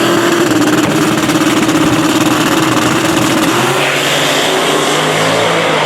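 Drag racing vehicle's engine at high revs during a run down the strip. The pitch climbs just before, holds high for about three and a half seconds, then drops and changes.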